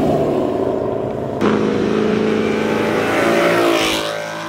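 A car engine revving hard as it accelerates. The sound jumps up about a second and a half in, the pitch climbs and then falls away about four seconds in.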